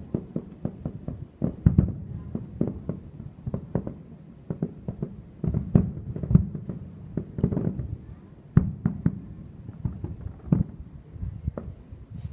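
Fireworks display: a rapid run of dull, distant bangs and pops, several a second, with a few louder bangs among them.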